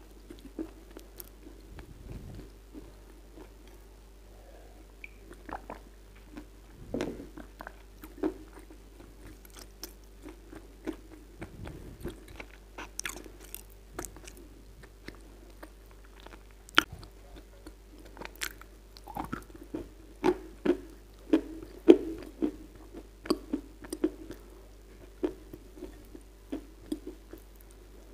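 Close-miked chewing and crunching of moistened Kyrgyz edible clay: irregular crisp crunches and wet mouth clicks, sparse at first and coming thick and fast in the last third, over a faint steady hum.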